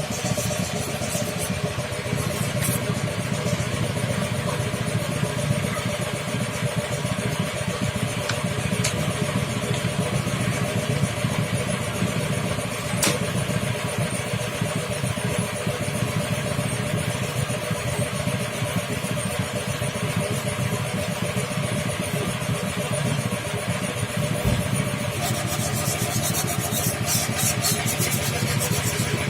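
Bored-up Vespa scooter's two-stroke single-cylinder engine running steadily, with no change in speed.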